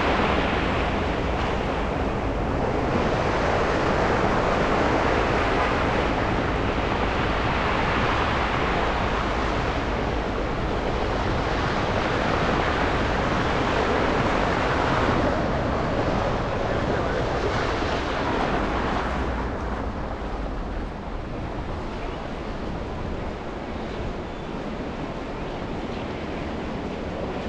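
Tyre and traffic noise of a car driving through snowy city streets: a rushing hiss that swells and fades several times and grows quieter after about twenty seconds.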